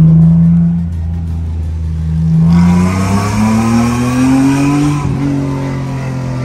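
Mazda RX-8's engine heard from inside the cabin, easing off at first, then revving steadily higher from about two and a half seconds in. At about five seconds the pitch drops back as it shifts up, and it runs on steadily.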